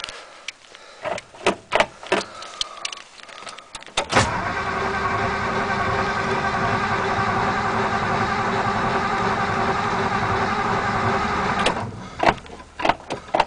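A few clicks and knocks, then the starter cranking the Ford 292 Y-block V8 steadily for about seven and a half seconds without it catching, and stopping abruptly. It is a cold no-start that the owner puts down to probably corroded points or no gas.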